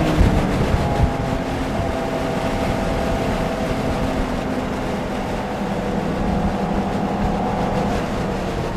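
Porsche sports car's engine heard from inside the car at speed on a race track. Its pitch drops at the start, with a few knocks in the first second, then holds a fairly steady note over road and wind noise.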